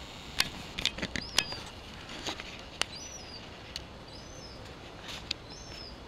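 A bird calls with a few short, high chirps, spaced out over a steady outdoor background noise, with a scatter of sharp clicks and taps mostly in the first half.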